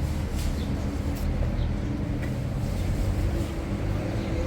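An engine running steadily at an even pace, a low rumble with a faint hum.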